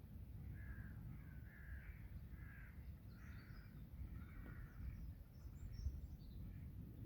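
A bird giving a run of about six harsh, crow-like calls over roughly four seconds, with fainter high chirps from small birds later on, over a steady low rumble.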